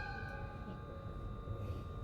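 Inside a JR East HB-E210 hybrid railcar at a standstill: a ringing chime tone dies away in the first second. Under it run the steady high whine of the onboard electrical equipment and a low rumble.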